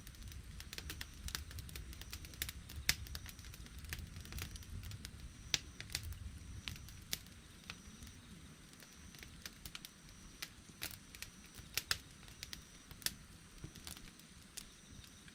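Wood campfire crackling, with irregular sharp pops and snaps over a soft low rumble that dies down about halfway through.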